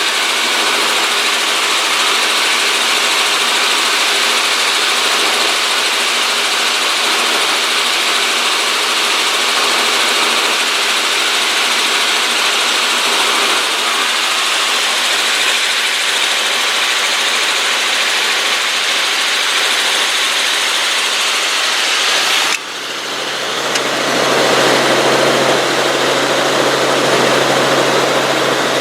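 Helicopter in flight: steady engine and rotor noise with a constant hum. About 22 seconds in the sound changes abruptly, dips for a moment, then settles into a lower, fuller steady noise with a strong low hum.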